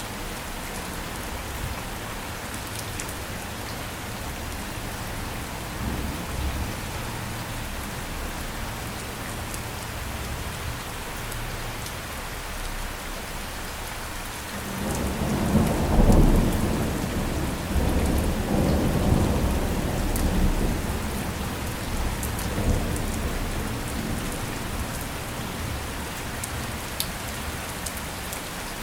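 Steady heavy rain falling, with a roll of thunder about halfway through that swells quickly and then rumbles away over several seconds.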